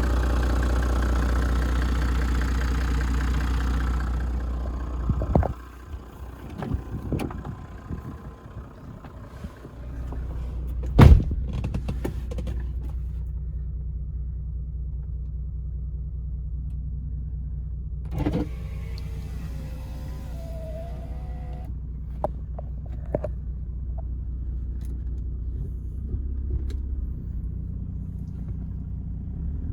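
Toyota Land Cruiser 100 Series turbo-diesel straight-six idling, loud at first and then dropping about four seconds in. A single sharp loud thump comes about eleven seconds in, after which the idle runs on steadily at a lower level with a few small clicks and knocks.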